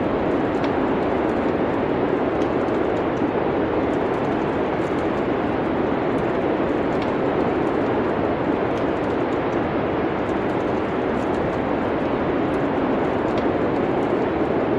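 A steady rushing noise like wind, with faint scattered crackles of a wood fire.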